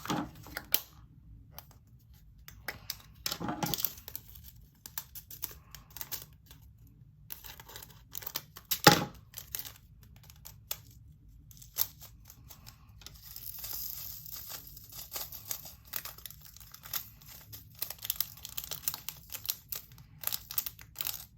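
Small plastic bags of diamond-painting drills crinkling and being torn open, with many scattered small clicks as the drills and storage containers are handled. One sharp click, the loudest sound, comes about nine seconds in.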